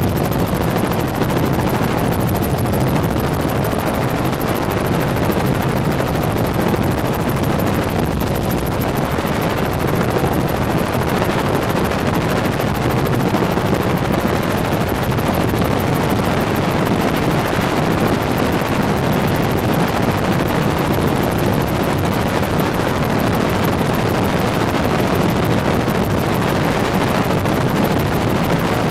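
Helicopter in flight: steady, unchanging engine and rotor noise.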